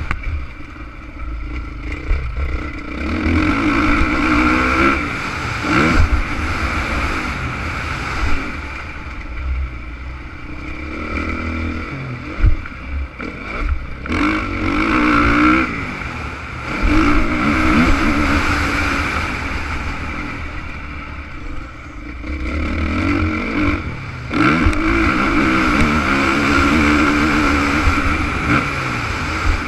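Honda CRF450 motocross bike's four-stroke single-cylinder engine running hard, its revs climbing and dropping again and again as it is ridden. A low rumble with scattered knocks runs underneath.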